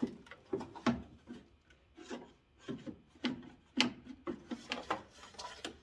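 Hard plastic being handled and pulled: a protective plastic cover being worked off a part, with irregular scraping, rubbing and clicking, sharper clicks about a second in and near four seconds.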